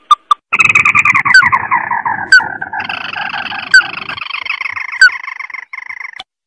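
Recorded crake (tikusan) calls played as a bird lure: a long rattling trill that falls in pitch, then a higher, steadier trill. Short rising notes repeat about once a second alongside the trills.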